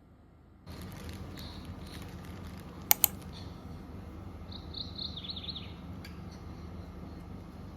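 A steady low hum with two sharp clicks in quick succession about three seconds in, followed by a short run of high chirps.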